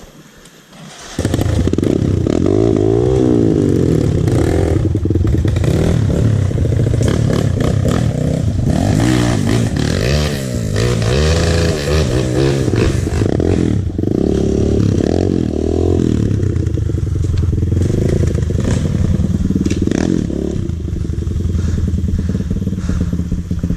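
Dirt bike engine running, its pitch rising and falling as it is revved and eased off over and over. It comes in suddenly about a second in and stays loud.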